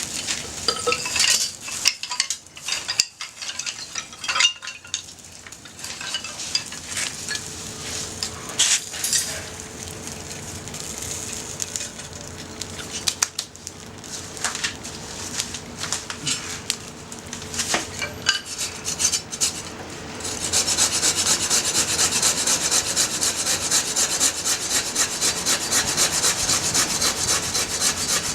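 Scattered light clinks and knocks of cooking over a small campfire grill, with faint crackling. About twenty seconds in, a blade starts rasping through wood in fast, even strokes and keeps going, louder than the rest.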